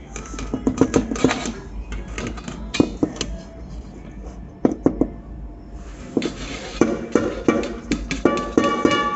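Repeated short knocks and clinks of kitchenware over background music, with the music's steady notes clearest near the end.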